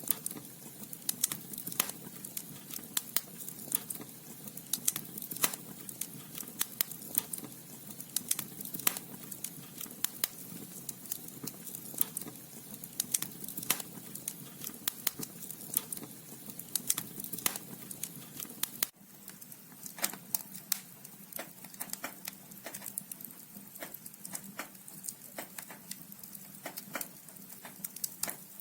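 Wood logs burning in a fireplace, crackling with frequent irregular sharp pops over a low steady rush of flame. About two-thirds of the way through, the low rush drops abruptly and the pops go on.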